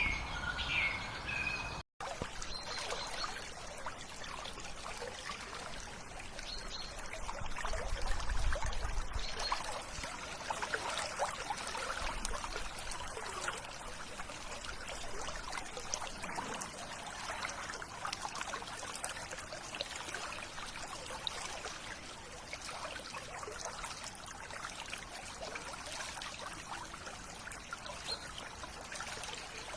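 A few bird chirps, then a sudden cut just before two seconds in, after which shallow river water trickles and bubbles steadily.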